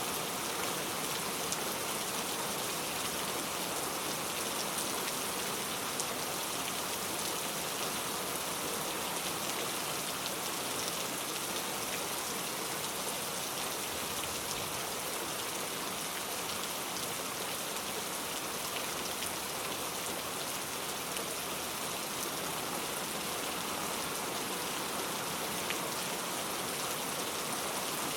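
Steady rain falling: an even, continuous hiss with scattered ticks of individual drops.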